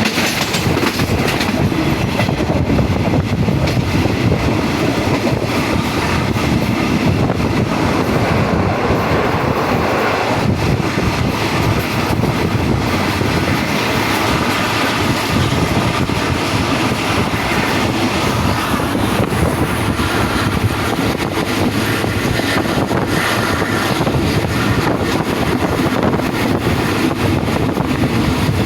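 A passenger train running along the track: a steady, loud rumble of wheels on rails.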